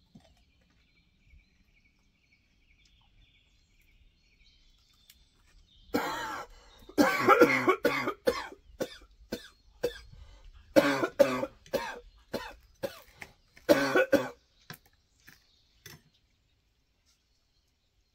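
A person coughing hard in several fits, starting about six seconds in and dying away after about sixteen, brought on by a very hot chili pepper and water going down the wrong way.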